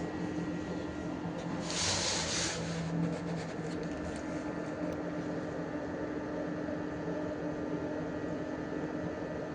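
A 12V PC fan running steadily in a cardboard air cooler model, giving an even hum. About two seconds in there is a brief hiss lasting about a second.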